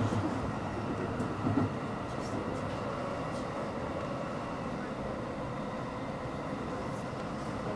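A Special Rapid electric train running at reduced speed under signal restrictions behind a freight train: a steady rumble of wheels and running gear with a faint steady whine, easing off slightly in the first couple of seconds and then holding level.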